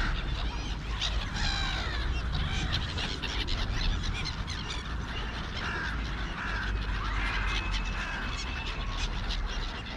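Crows cawing with other birds calling, a cluster of calls in the first couple of seconds and scattered calls after, over a steady low rumble.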